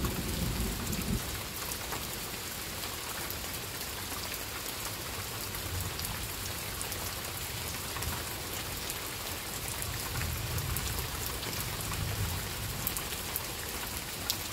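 Steady rain falling on garden plants and foliage, an even hiss. A low rumble of thunder fades out in the first second, and a fainter rumble swells again about ten to twelve seconds in.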